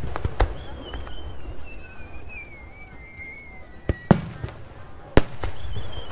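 Aerial firework shells bursting overhead: about four sharp bangs, each followed by a low booming rumble, with light crackling between them. A long thin whistle slides slowly down in pitch over about three seconds.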